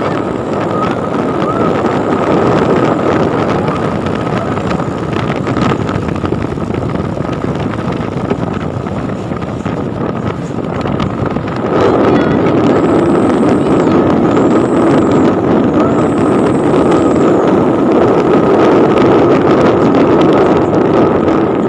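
Road traffic with a heavy truck's engine running as it drives past, steady throughout with a thin steady high tone, growing louder about halfway through. A few faint high squeals come shortly after it gets louder.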